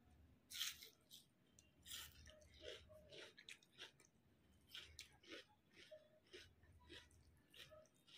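Close-up chewing and mouth sounds of a person eating boiled egg and rice, a string of short sounds about two to three a second.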